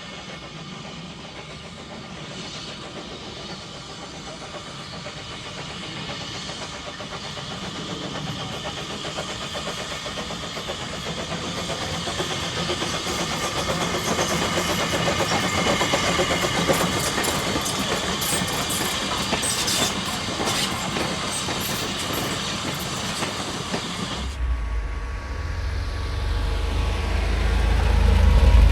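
Train running on the line, growing steadily louder as it comes closer, with rattling and clicking from the wheels and carriages. About three-quarters of the way through, the sound cuts suddenly to a heavy low rumble.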